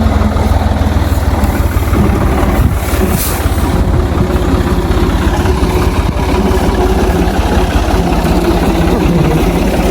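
Tractor engine running steadily close by, a heavy low rumble that does not change.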